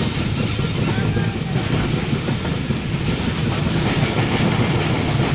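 Moving train heard from inside a carriage: the steady running noise of the wheels on the rails, heaviest in the low range.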